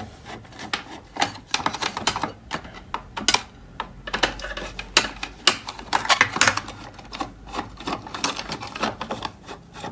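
A rapid, irregular series of sharp clicks and light knocks, several a second, like small hard objects being handled on a bench, over a faint low hum.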